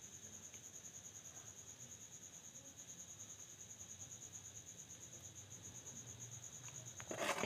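Faint, steady chirping of a cricket, a continuous rapid pulsing trill. A brief soft noise breaks in near the end.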